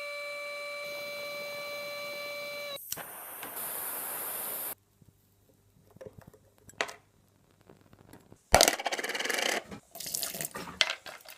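CNC router spindle running with a steady high whine while machining a small water-pump impeller. Just under three seconds in it changes to a hiss, then cuts off abruptly. After a near-silent pause there is a sharp knock, then clattering and handling of small parts.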